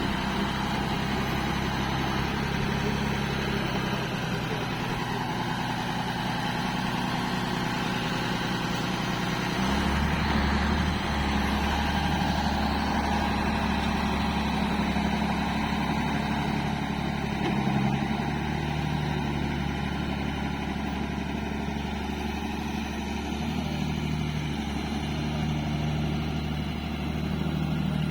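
Truck engine running steadily; its note shifts and the low rumble grows stronger about ten seconds in.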